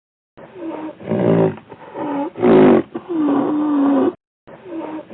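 An animal calling in a string of pitched calls that bend up and down, the longest lasting about a second; after a short break about four seconds in, the same calls start again.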